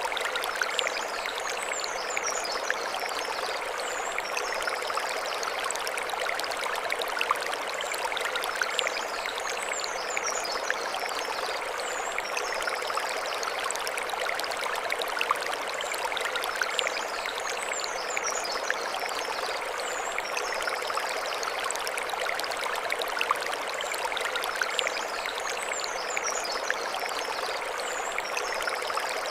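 Mountain stream running over stones, a steady even wash of water. A short high chirping phrase recurs about every eight seconds.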